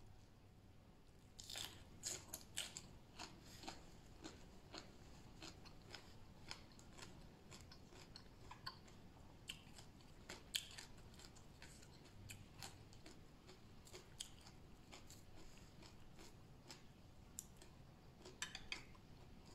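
A person chewing and crunching fresh raw vegetables and papaya salad: faint, scattered mouth crunches and clicks, busiest a couple of seconds in and again near the end.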